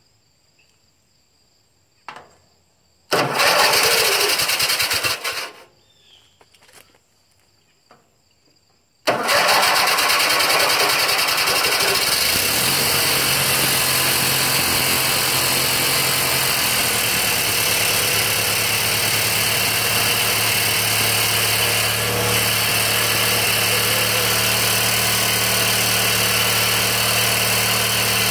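Briggs & Stratton 14 HP opposed-twin engine on a Bolens garden tractor being cranked by its starter: a first try of about two and a half seconds stops without it catching. About nine seconds in it starts and runs steadily, settling into an even idle a few seconds later.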